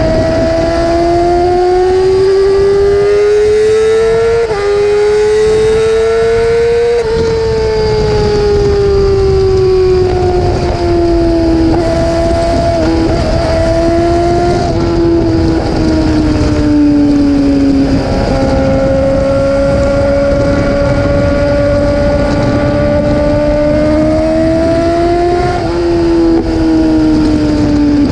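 Yamaha R6 inline-four sport-bike engine running continuously at high revs, its high-pitched note climbing and falling slowly over several seconds at a time: up over the first several seconds, down and then level through the middle, and briefly up again near the end.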